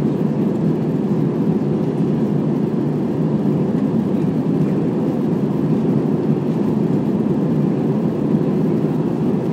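Steady low cabin noise of an Airbus A320 in flight, the engines and the airflow over the fuselage blending into an even rumble that doesn't change.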